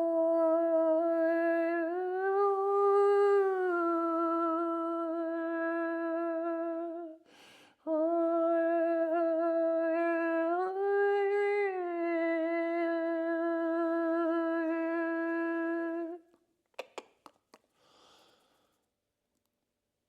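A voice humming two long, held notes with a breath between them, each swelling slightly upward in pitch partway through before settling back. A few faint clicks follow near the end.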